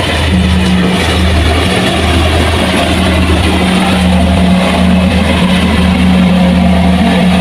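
Diesel engine of heavy farm machinery running steadily under load, a loud low hum that wavers slightly in strength.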